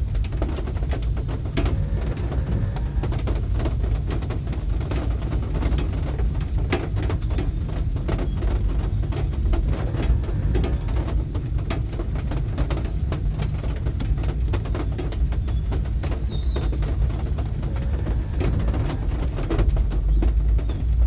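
Steady rain, a constant low rumble with many drops ticking irregularly on a hard surface.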